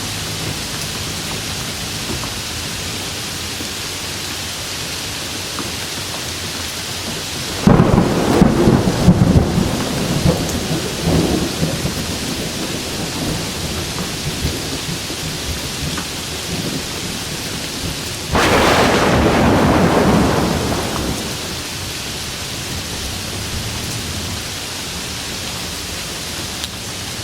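Steady rain falling, broken about eight seconds in by a sudden thunderclap that crackles and rumbles for a few seconds. A second loud, more even burst of thunder comes about eighteen seconds in and fades over a few seconds.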